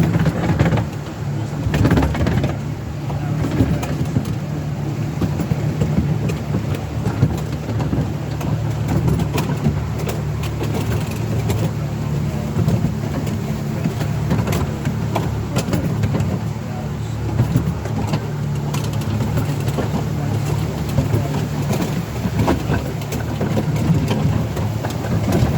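Miniature railway train running steadily, a low engine hum with frequent light clicks and knocks along the way.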